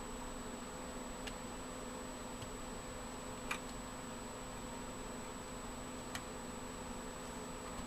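A few faint, sharp clicks of small parts being handled, one about a third of the way in a little louder than the others, over a steady electrical hum and hiss.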